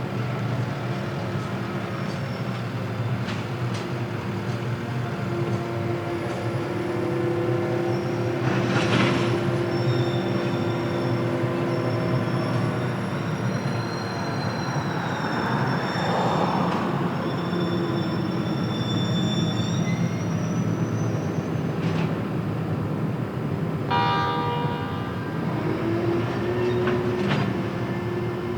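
Electric-hauled freight train running past, a steady rumble of wagons on the rails with thin, high squealing tones from the wheels that come and go and a few sharp clicks over rail joints.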